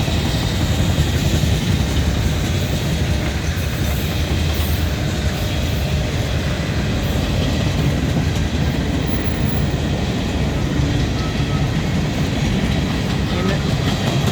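CSX manifest freight train's cars rolling past, the wheels on the rails making a steady, loud rumble.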